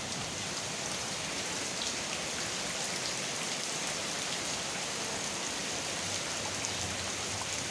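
Steady rain falling and pattering on surfaces, a continuous hiss dotted with the ticks of individual drops.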